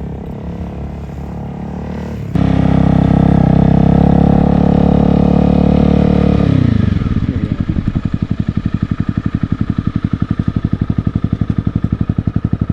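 Honda CBR250 motorcycle engine. It runs quietly at first, then jumps to a loud, steady pull about two seconds in. The revs fall away about seven seconds in and settle into a low, pulsing putter.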